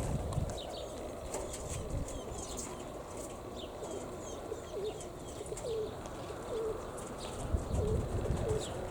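A flock of pigeons flapping their wings, with cooing from about halfway through and short high chirps throughout, over a steady rumble of strong wind on the microphone.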